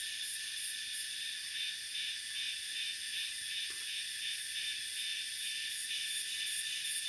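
Insect chorus: a steady high-pitched shrilling that pulses evenly, about three times a second. A faint click comes about halfway through.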